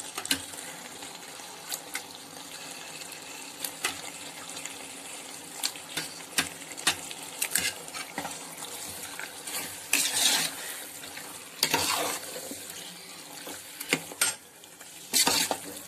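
Raw chicken pieces sizzling in a tomato masala in a metal pot, with a ladle clicking and scraping against the pot as they are stirred in. The scraping comes in several louder bursts in the second half.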